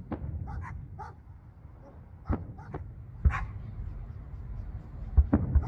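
Aerial fireworks going off: about five sharp bangs at irregular gaps of one to two seconds over a low rumble.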